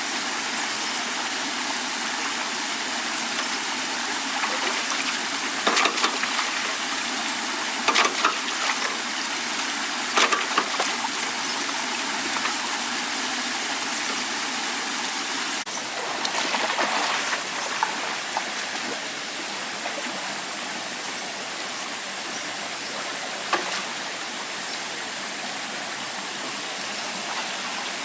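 Rushing water making a steady hiss, with a few short knocks or splashes about 6, 8 and 10 seconds in, and a rougher stretch a little past halfway.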